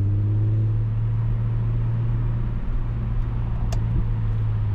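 Infiniti G37's V6 running through a Speed Culture Studios custom exhaust, heard with the windows down: a steady low drone at a held engine speed just after a second-gear pull.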